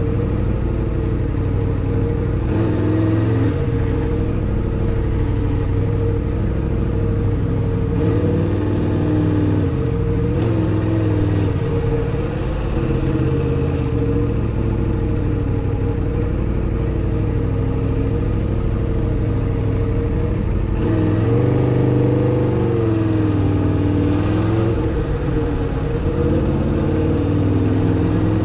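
Aprilia RSV4 RR's V4 engine through its stock exhaust, heard from the rider's position while riding at moderate pace. The engine pitch rises and falls gently several times as the throttle is opened and eased, most clearly a few seconds in, around ten seconds in and again past twenty seconds.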